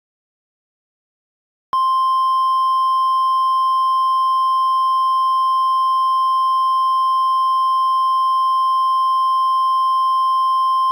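Weather-radio warning alarm tone: one steady, unbroken tone that comes on about two seconds in and holds. It is the alert signal that comes before an emergency weather warning is read out.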